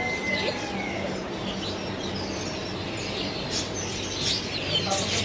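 Many caged birds chirping at once, short high calls overlapping and growing busier near the end, over a steady low hum.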